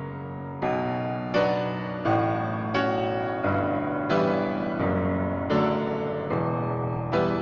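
Piano music: slow chords, a new chord struck about every three-quarters of a second and left to ring and fade.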